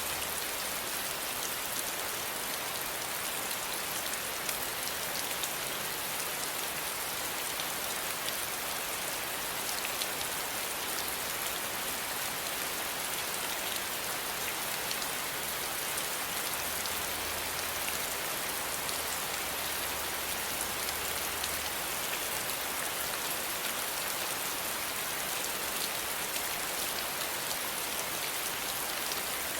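Steady rain falling, an even hiss filled with the fine patter of many drops striking a surface.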